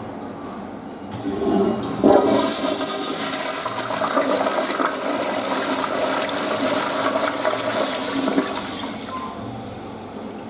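Western-style flush toilet being flushed: a rush of water starts about a second in, runs strongly for several seconds, then tapers off near the end.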